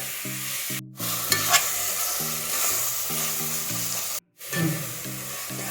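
Onion-tomato masala sizzling as it fries in a pan, stirred with a spoon with a few scraping strokes. The sound cuts out abruptly twice. The salt just added is drawing water out of the tomatoes.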